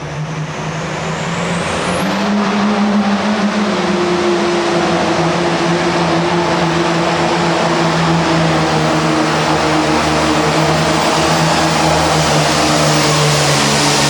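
Turbocharged diesel Super Farm pulling tractor running flat out during a pull. It builds in the first two seconds, as a turbo whistle climbs very high, then holds a loud, steady high-rpm engine note.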